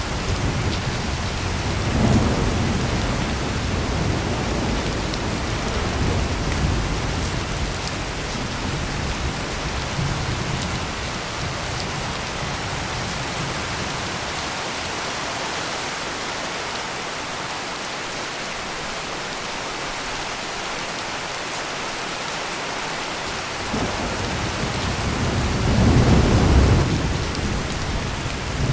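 Heavy rain pouring steadily, with low thunder rolling through the first several seconds and dying away, then a louder roll of thunder swelling up near the end.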